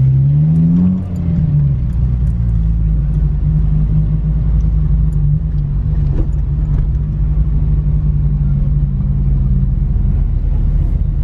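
Car engine running at low speed. Its pitch rises briefly about a second in as it accelerates, then it holds a steady drone.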